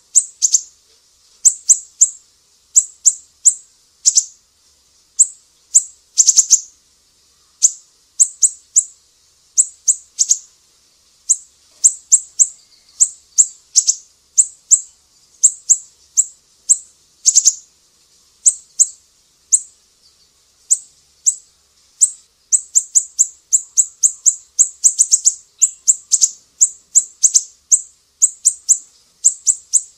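Small songbird giving very high, sharp chirps, each a thin note sweeping down, repeated in quick clusters of two to five with short pauses between them, getting denser about two-thirds of the way through.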